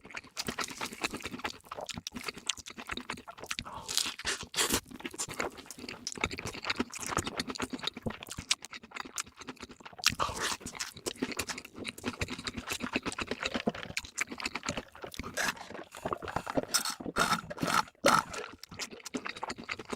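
Close-miked chewing and crunching of crispy fast food, a dense run of crackles and clicks with louder crunches about four seconds in, about ten seconds in, and near the end.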